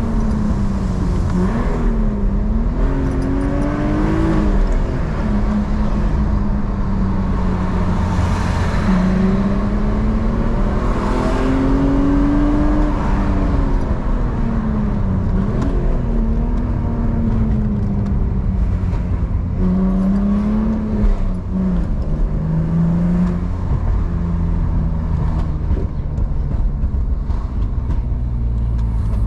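BMW E46 engine and exhaust while driving at moderate revs. The engine note rises and falls gently several times over a steady low rumble.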